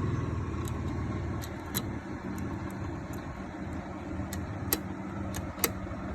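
A small motor running steadily with a low hum, broken by irregular sharp metallic clicks about every half second to second.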